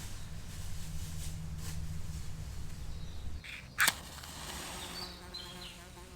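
A single loud, sharp crack a little past halfway through, over a low outdoor rumble that fades out just before it. A few short, high bird chirps follow.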